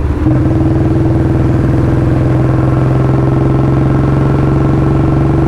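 Royal Enfield Bullet 350's single-cylinder engine running at a steady throttle through a free-flow L-bend pipe and long Punjab silencer, very loud, its exhaust note holding one pitch after a brief dip right at the start.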